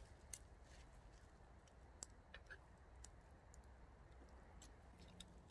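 Near silence, with faint, scattered small clicks and ticks at irregular intervals over a low background rumble.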